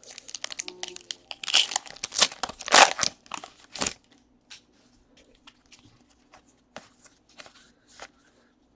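Crinkling and tearing of a foil trading-card pack wrapper being torn open: a busy run of rustles and crackles over the first four seconds or so. After that come a few light ticks of cards being handled.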